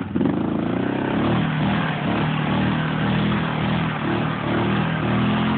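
Yamaha Grizzly 600 ATV's single-cylinder engine revving up from idle and held at high revs, wavering up and down under load as the ATV struggles in deep mud.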